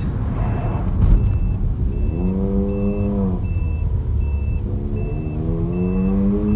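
A motor vehicle's engine running and revving over a low rumble, while a reversing alarm beeps steadily about twice a second.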